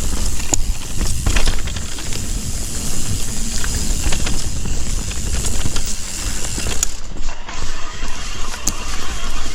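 Mountain bike being ridden along a dirt singletrack: a steady rumble of tyres rolling over the trail, with scattered clicks and knocks from the bike's drivetrain and frame.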